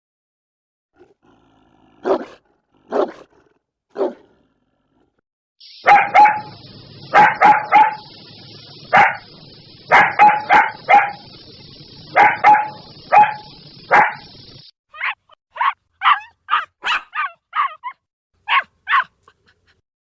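Large dogs barking: a few single barks, then quick clusters of barks over a background hiss, then a run of shorter, higher barks, with the background changing abruptly between separate recordings edited together.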